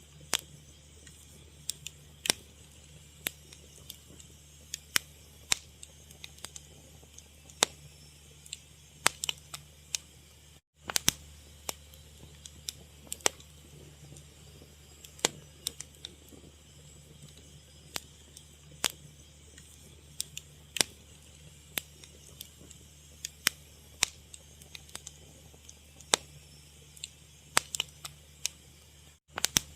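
Fire crackling: irregular sharp pops and snaps over a low steady rumble. The sound cuts out for a split second twice.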